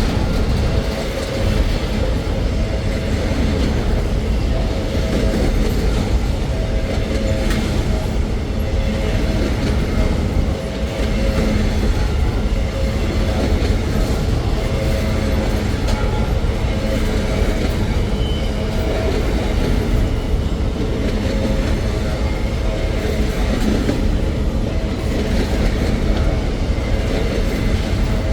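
Freight train wagons rolling past at close range: a steady heavy rumble with scattered knocks from the wheels over the rail.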